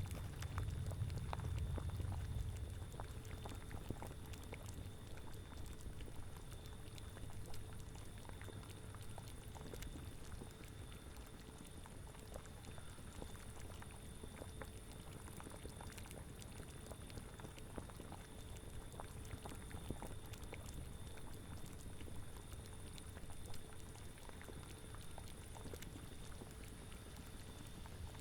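Liquid bubbling steadily in a boiling cauldron, with many small pops and a low wind rumble that eases after the first couple of seconds.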